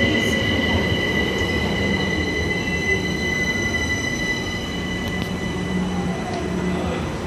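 London Overground Class 378 electric multiple unit braking into the platform, its wheels squealing with steady high tones over the rumble of the passing coaches. A faint falling whine comes in during the second half as it slows to a stop.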